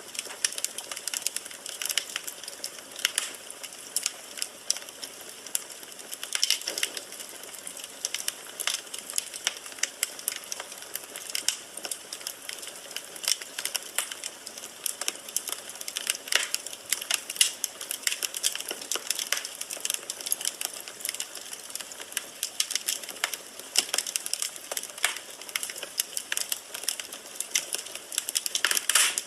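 Firewood burning in a fireplace: steady crackling and popping, with many irregular sharp snaps over a soft hiss of flame.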